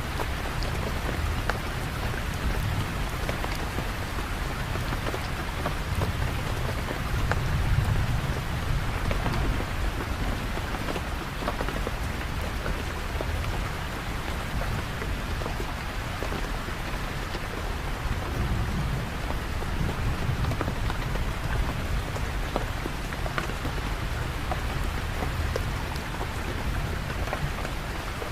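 Steady heavy rain with a dense patter of individual drops. A low rumble underneath swells about seven seconds in and again near nineteen seconds.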